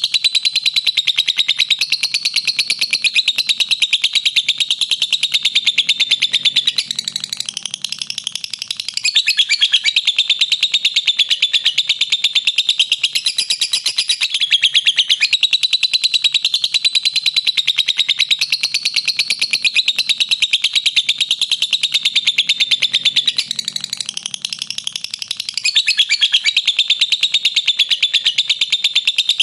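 Lovebird singing its long 'ngekek': a continuous, very rapid, high-pitched chattering trill. It eases briefly into softer, lower notes about seven seconds in and again about twenty-four seconds in.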